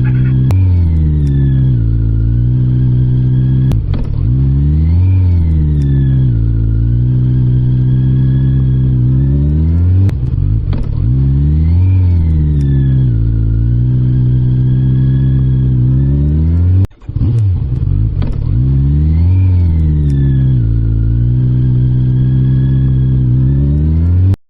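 Motorcycle engine running under way, its pitch repeatedly rising and falling as it accelerates and eases off, with a brief drop in level about seventeen seconds in.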